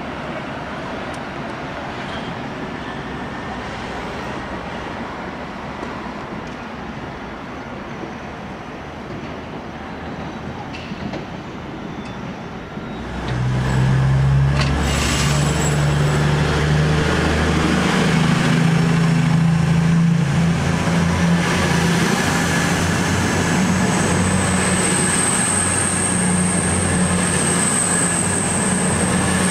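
A train coming in: a steady background rumble, then about halfway through a sudden louder low drone of the traction units as it draws close, and later a thin high-pitched wheel squeal that rises slightly and holds.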